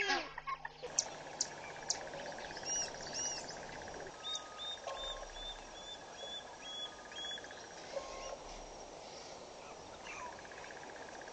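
Wild birds calling at a waterhole: two arching calls, then a run of short, evenly spaced chirps about three a second, over a steady high buzz and outdoor background noise. A few sharp clicks sound in the first two seconds.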